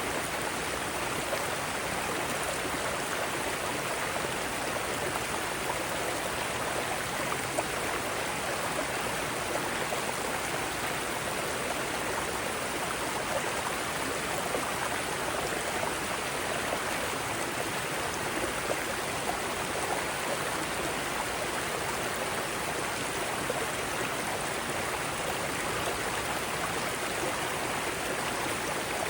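Mountain stream water running and splashing over rocks in a steady, even rush.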